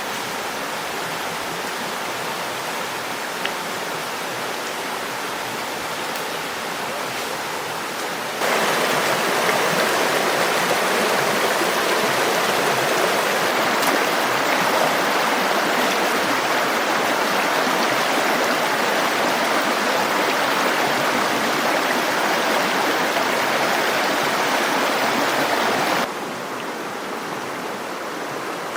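Steady rushing of running water, like a stream. It turns abruptly louder about eight seconds in and drops back just as suddenly near the end.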